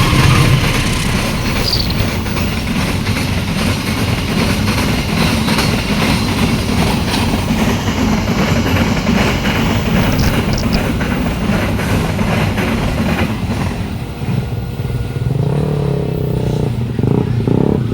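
A passing train: a loud, steady rush of wheels on rail with rapid clattering. Near the end the clatter eases and a lower steady engine hum takes over.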